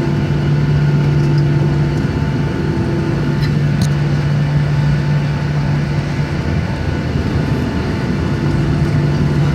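Steady cabin noise inside a Boeing 737-700 taxiing after landing: the CFM56 engines' low, even hum at taxi idle under a constant rush of air.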